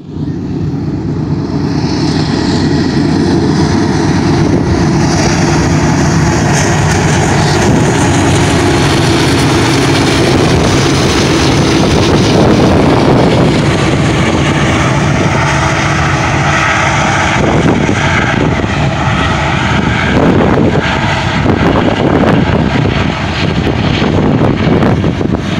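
Union Pacific freight train passing close at speed: the lead diesel locomotives, a GE unit with an EMD SD70M and SD9043AC behind it, run loud and steady as they go by. From about two-thirds of the way through, the freight cars follow with their wheels rumbling and clicking over the rails.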